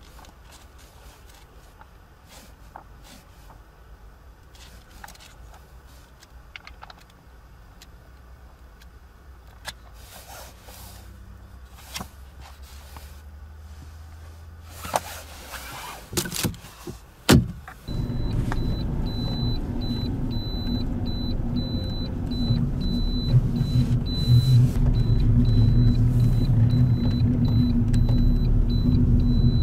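Pages of a booklet are turned with light rustles and clicks. About two-thirds of the way in, after a few knocks, the Lada Granta's 1.6-litre four-cylinder engine starts suddenly and settles into a steady idle, heard from inside the cabin.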